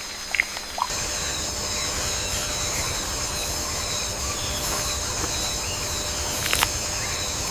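Rainforest ambience: a steady, high insect drone comes in about a second in over a low rumble. There are a few short chirps at the start and a couple of sharp clicks near the end.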